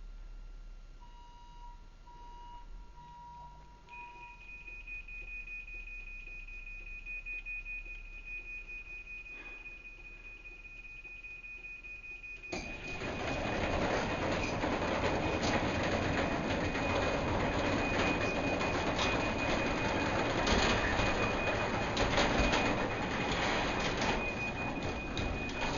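Craftsman 3/4 HP belt-drive garage door opener on timer-to-close: faint beeps and a steady high warning tone, then about halfway through its DC motor starts and the door rumbles closed for about 13 seconds, stopping just before the end.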